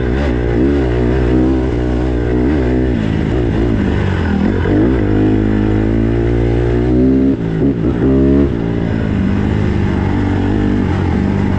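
Honda CRF150R dirt bike's single-cylinder four-stroke engine under way on a trail, revving up and down as the throttle is worked, with a short break in the revs about seven seconds in before it pulls again.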